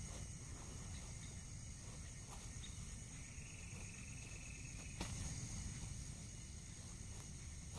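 Forest ambience with insects chirring steadily at a high pitch, broken by a few sharp clicks or snaps, the loudest about five seconds in.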